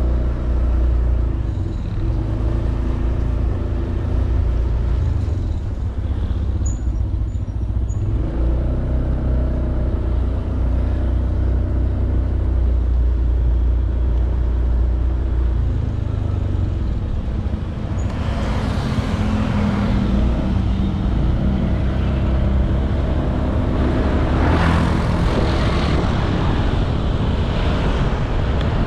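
Honda Beat 110cc scooter's single-cylinder engine running steadily at cruising speed, with road noise. Two louder rushing swells come about two-thirds of the way through and again near the end, like passing traffic.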